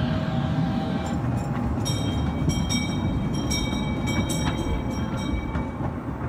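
Small zoo train locomotive idling with a steady low rumble. From about two seconds in until shortly before the end, a high metallic ringing with rapid repeated strikes sounds over it.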